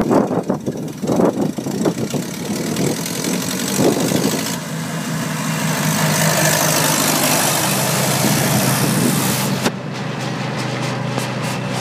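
Old tractor engine running at a steady note, choppy and uneven for the first few seconds. A loud rushing hiss joins it about four and a half seconds in and cuts off suddenly about two seconds before the end.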